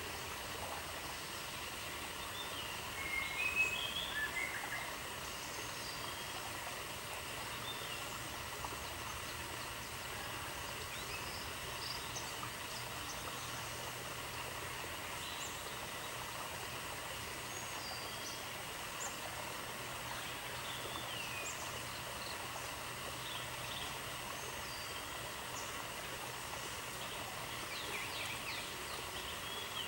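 Outdoor nature ambience: a steady hiss with scattered short bird chirps, a louder cluster of chirps about three to four seconds in.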